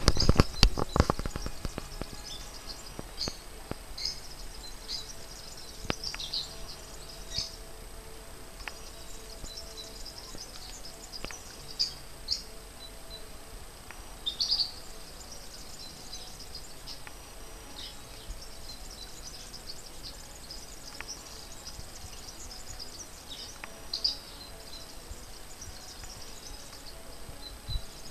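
Small birds chirping now and then over a steady outdoor hiss: short high chirps every second or two, a few of them louder. Low rumbling on the microphone in the first second.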